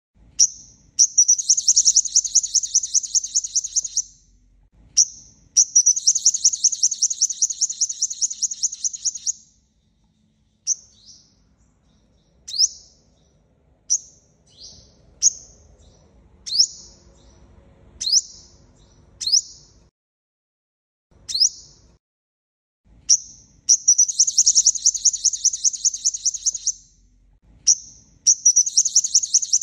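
Five-colour sunbird calling: high, rapid trills lasting a few seconds each, with a run of single sharp falling chips in the middle and the trills returning near the end.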